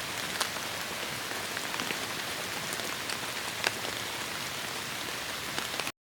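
Heavy rain falling steadily in a forest, a dense hiss with the sharp taps of single large drops, one standing out a little after halfway. The sound cuts off abruptly to silence near the end.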